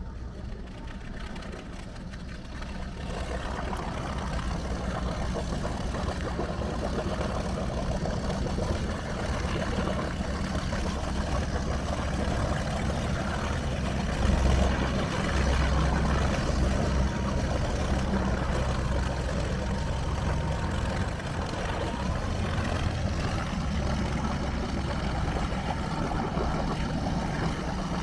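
Inboard marine engine of a 1968 Trojan 37 sport fish yacht idling steadily just after starting, a little louder from a few seconds in.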